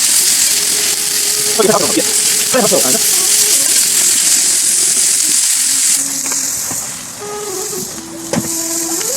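Loud, steady sizzling hiss from the campfire cookout, easing off about six seconds in, with brief voices about two seconds in.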